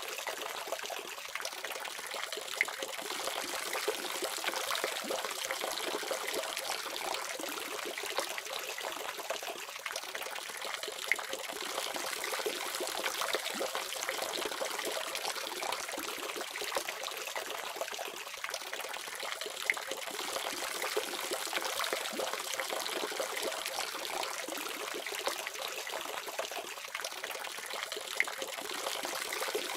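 Water running steadily from a faucet, a continuous splashing trickle with small irregular splashes.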